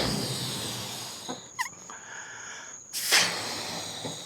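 A person blowing hard into a rubber balloon to inflate it: a long breath at the start and another, sharper one about three seconds in. Crickets trill steadily behind.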